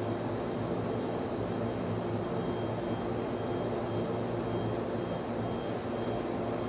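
Server room ambience: the steady hum and whir of equipment cooling fans, with a faint high tone that comes and goes.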